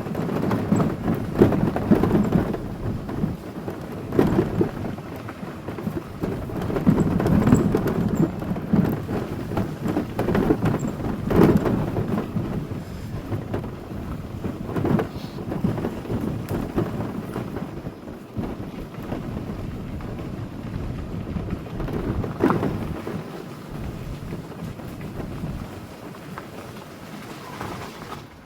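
Car driving along a forest road: a rumble of tyre and road noise that swells and eases in uneven surges, with scattered knocks, fading somewhat near the end.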